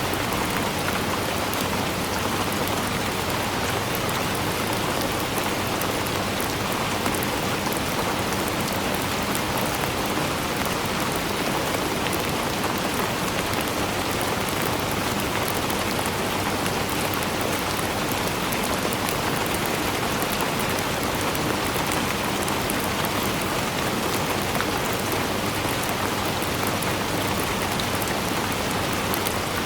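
Steady heavy rainfall: a continuous dense hiss of drops pattering on surfaces, even in level throughout.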